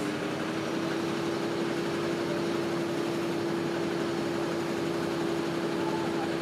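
Train engine running with one steady droning note, its pitch settling after a slight rise at the very start, over a wide hiss of background noise.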